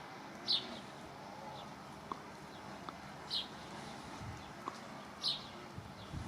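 A small bird gives short, sharp chirps, one every two seconds or so, three times.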